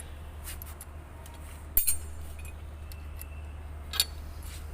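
Metal clinks from hand tools and engine parts during engine disassembly: three sharp clinks, the loudest about two seconds in with a short ring, over a steady low hum.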